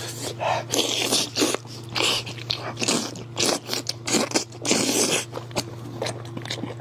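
Close-up eating sounds of a goat head: irregular bites and wet chewing in quick succession, thinning out near the end.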